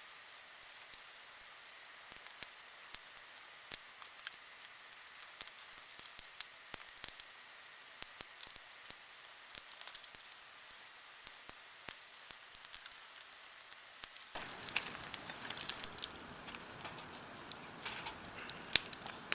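Wood fire burning in a fire pit, crackling with many irregular sharp pops. About fourteen seconds in, a fuller, steadier hiss sets in under the crackle.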